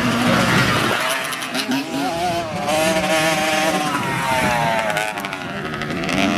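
Dirt bike engines revving up and down as the bikes race, the pitch climbing and dropping with each throttle change.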